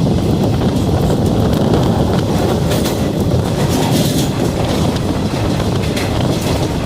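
Passenger trains running at speed on the rails: a steady, loud rumble of wheels and carriages, with irregular clicks of wheels passing over rail joints.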